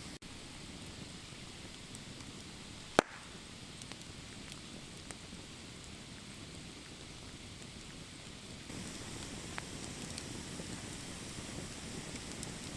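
Campfire crackling over a steady hiss, with scattered small ticks and one loud sharp pop about three seconds in.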